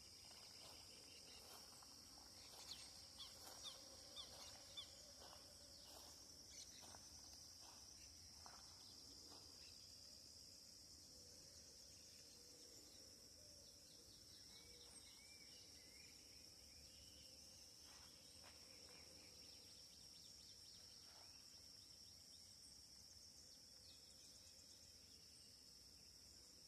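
Faint outdoor ambience: a steady high-pitched insect drone, with a few short bird chirps about two to five seconds in.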